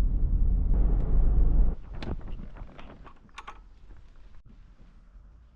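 Low rumble of a car on the road that cuts off abruptly about two seconds in, followed by a few sharp clicks and knocks over quiet background.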